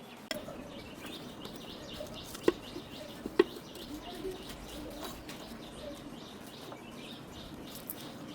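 Small birds chirping repeatedly in the background, with a few sharp clinks, the two loudest about two and a half and three and a half seconds in.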